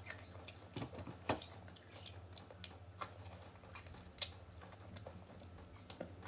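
Crunching and chewing of raw green mango: sharp crisp crunches come at irregular intervals over a faint, steady low hum.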